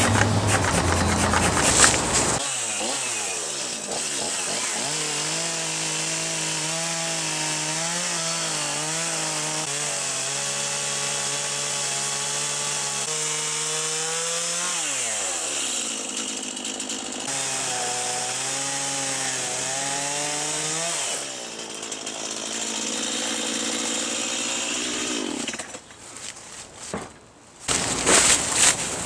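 Chainsaw cutting into a catalpa tree's trunk, starting about two seconds in. The engine holds a steady high pitch that wavers under load and drops away twice as the throttle is let off.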